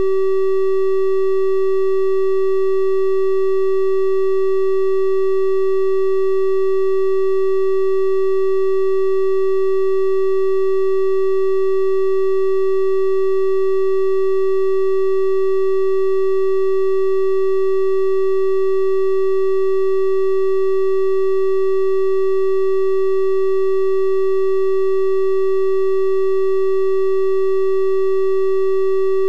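Synthesised 384 Hz triangle-wave tone, held steady at one pitch and level, with faint higher overtones.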